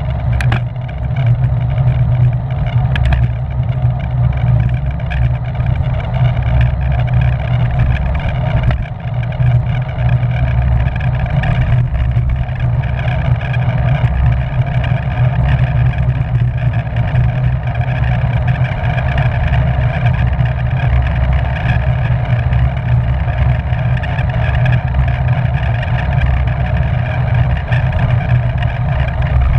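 Steady wind rush and rolling hum on a camera mounted on a racing bicycle moving at speed.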